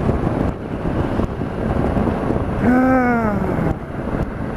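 Wind rushing over a helmet microphone on a moving 2008 Suzuki V-Strom 650, its V-twin engine running under the noise. About three seconds in, a short pitched tone rises slightly and then falls away.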